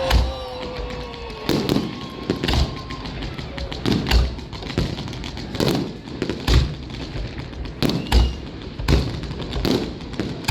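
Fireworks display: aerial shells bursting with loud booms about once a second, unevenly spaced. A falling whistle from a whistling firework fades out in the first second and a half.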